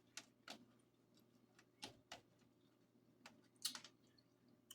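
Near silence with scattered soft mouth clicks and smacks of someone chewing food close to the microphone, about eight in all, the loudest a quick cluster near the end.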